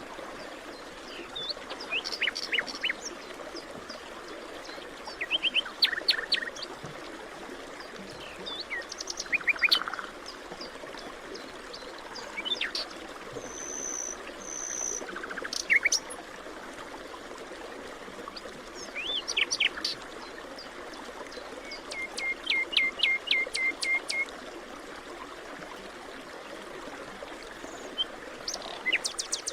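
Forest birds singing, short chirping phrases and rapid trills every few seconds, over a steady rushing background like a stream.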